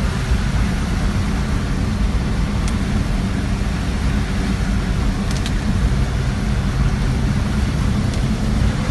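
Car driving on a rain-wet highway: a steady low rumble of engine and tyres with an even hiss above it, and a couple of faint clicks.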